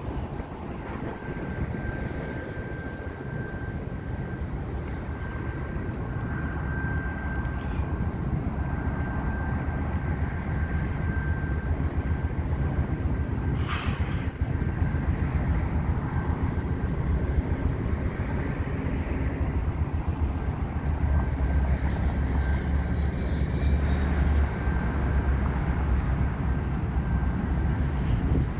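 Union Pacific train rolling across a steel truss railroad bridge: a steady low rumble that grows gradually louder, with a thin high whine held over it. A single sharp click about halfway through.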